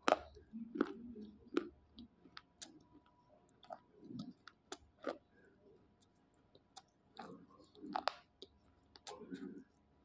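Dry slate pencils being chewed close to the mouth: irregular crisp crunches and clicks with short pauses between bites.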